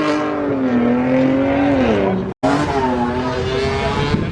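Loud car engine accelerating, its pitch rising and then falling away about two seconds in. The sound breaks off abruptly, then another car's engine runs at a steadier, higher pitch.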